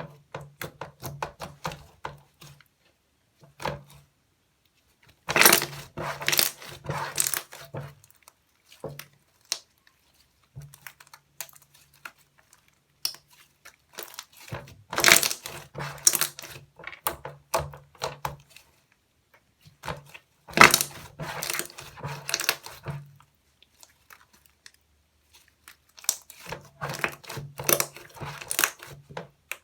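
Slime being squeezed and pressed by hand, giving crackling, popping clicks in bouts of a few seconds with short pauses between.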